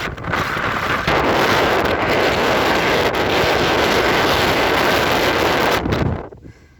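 Strong wind buffeting the microphone: a loud, steady rush that dies away sharply near the end.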